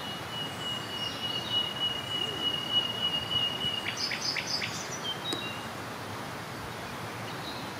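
Birds calling over a steady outdoor hiss: one long, even, high note held for about four seconds, then a quick cluster of short, higher chirps.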